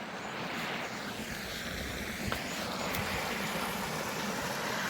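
Steady, even rush of outdoor background noise with a couple of faint clicks about two and three seconds in.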